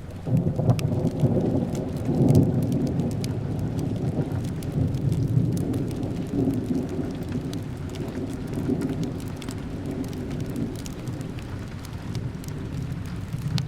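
A long roll of thunder rumbling over steady rain. It starts suddenly about half a second in, is loudest in the first few seconds, and slowly eases off.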